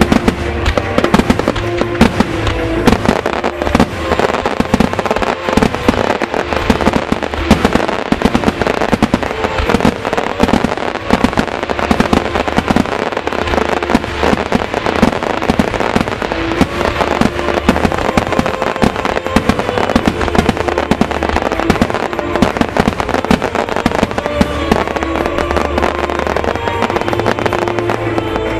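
Starmine fireworks display: shells bursting in rapid succession with continuous crackling, over loud background music with a pulsing bass.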